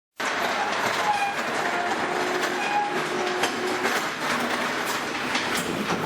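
Euroform cleaning and stacking machine running, its steel form panels clattering through with short metallic squeaks and sharp clicks. The sound starts abruptly just after the opening.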